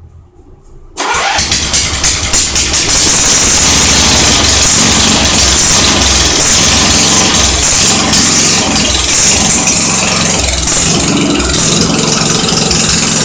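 Briggs & Stratton 11 hp engine in a Simplicity 707 garden tractor starting about a second in, catching after a couple of seconds of uneven firing, then running steadily. It has no muffler or exhaust pipe fitted, so it runs open and very loud.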